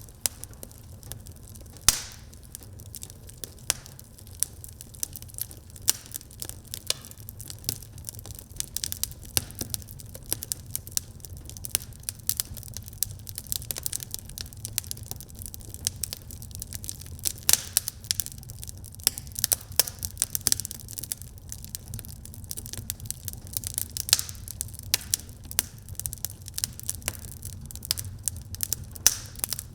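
Wood fire burning in a fireplace, crackling constantly with irregular sharp pops and a few louder snaps, over a low steady rumble of the flames.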